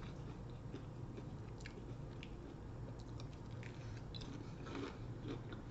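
Close-miked mouth sounds of someone chewing food, with scattered short crisp crackles and wet clicks, over a faint steady low hum.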